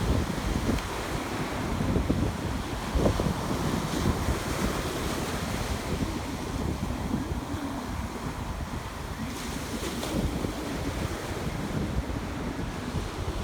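Ocean surf washing onto a beach, with wind buffeting the microphone in a low, uneven rumble.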